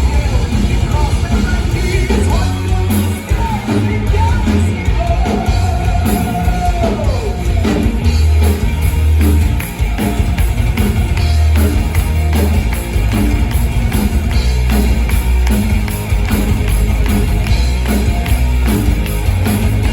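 Live rock band playing with drums, heavy bass and a sung lead vocal, one long note held about six seconds in.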